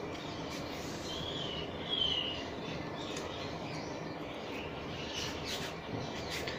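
A small bird chirping twice in the background, two short high calls a second or so in and about two seconds in, over a steady low hiss. Faint light rustles from the cloth and measuring tape being handled come near the end.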